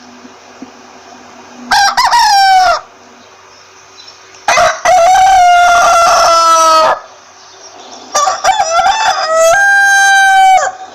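Rooster crowing three times: a short crow about two seconds in, then two long drawn-out crows, the last ending near the end.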